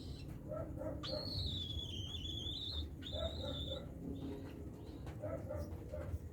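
Cockatiels calling: a long wavering whistle about a second in, then a shorter whistle, with quick groups of short chirps repeating in between.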